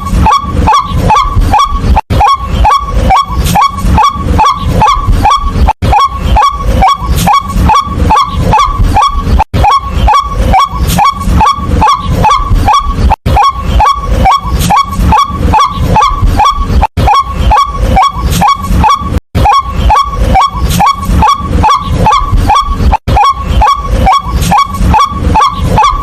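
White-breasted waterhen calling its loud, rapid 'kwak' over and over, about three calls a second, with a brief break every few seconds.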